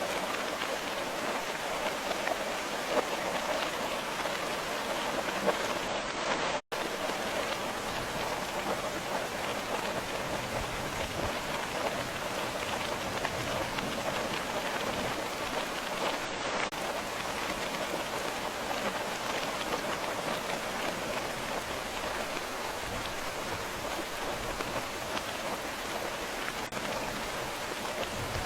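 Steady rain falling, an even hiss of many drops. The sound cuts out for an instant about seven seconds in.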